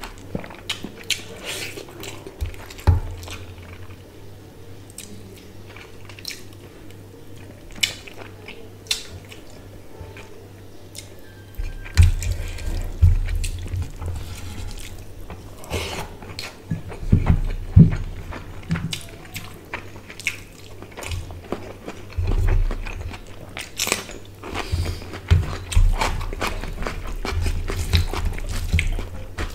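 Close-miked eating by hand: wet chewing of rice and hilsa fish curry with frequent lip smacks and clicks, and fingers squishing and mixing rice and curry on a steel plate. The chewing gets louder about halfway through.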